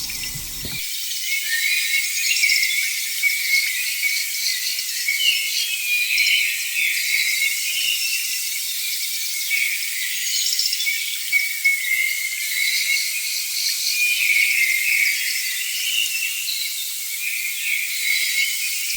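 Tropical rainforest chorus of insects and birds: a dense, steady mix of high-pitched buzzing, chirps and trills with almost nothing low in the sound.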